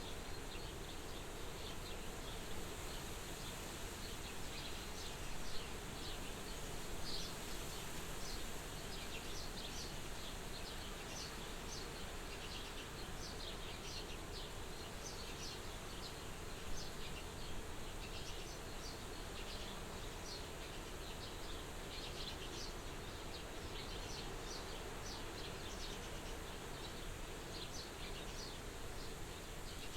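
Soft wind blowing steadily as an even hiss, with many short, high chirps scattered through the middle.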